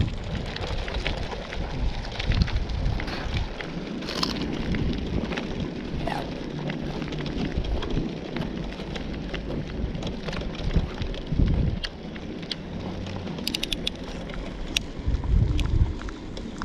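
Bicycle being ridden on a dusty dirt road: tyres crunching over grit with small clicks and rattles, and wind buffeting the camera microphone in gusts.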